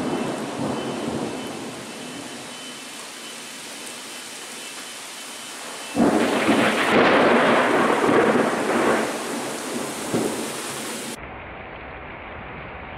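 Thunder over rain: a fading rumble, then a sudden loud clap about six seconds in that rolls on for a few seconds. Near the end the sound cuts abruptly to a duller, steady hiss.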